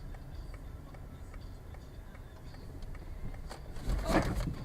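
Car turn-signal relay ticking steadily, about two clicks a second, over low engine and road hum inside the cabin. Near the end, a louder rushing noise lasts about a second.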